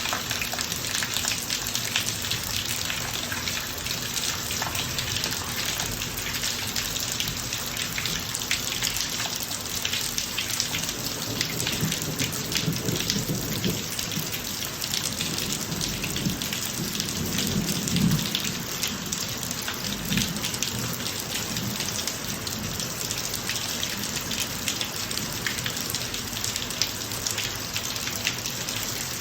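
Steady rain falling on a driveway, a dense patter of drops. A low rumble of thunder swells in the middle, peaks about two-thirds of the way through, then fades.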